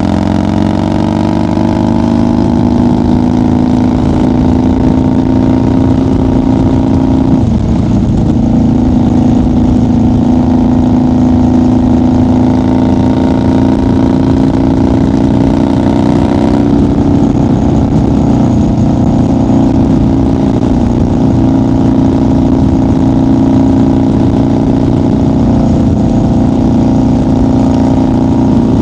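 1990 Harley-Davidson FXR's Evolution V-twin engine under way on the highway, rising in pitch as it accelerates for the first couple of seconds. The engine note breaks briefly about a quarter of the way in, then holds steady at cruising speed.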